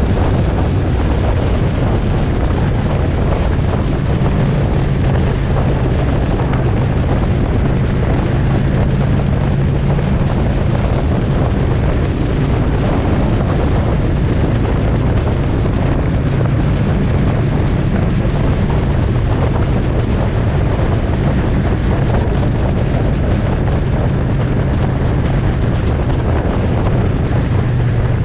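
Motorcycle engine running at a steady cruising speed, with wind rushing over the microphone. The engine note holds nearly constant throughout.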